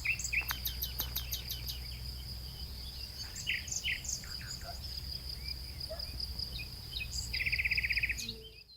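Small birds chirping, with a rapid buzzy trill near the end, over a steady high thin whine and a low rumble. Everything fades out in the last moment.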